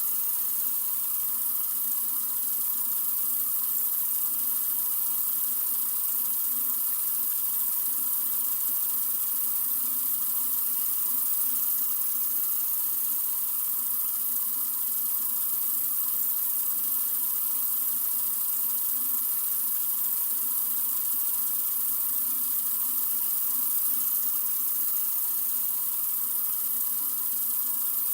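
Sink faucet running in a steady, unbroken stream, an even high hiss.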